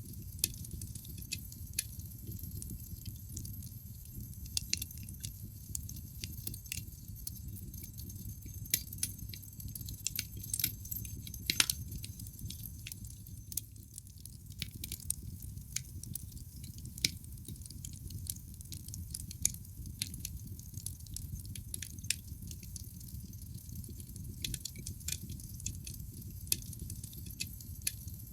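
Wood fire burning in a fireplace: a steady low rumble of flames with irregular sharp crackles and pops from the burning logs, busiest about a third of the way in, with one loud pop just before the middle.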